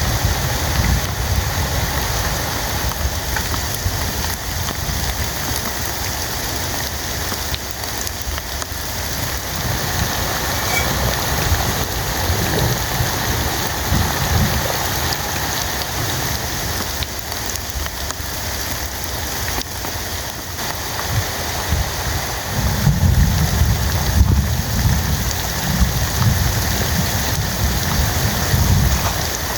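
Heavy rain falling steadily. A low rumble underneath grows louder about three-quarters of the way through.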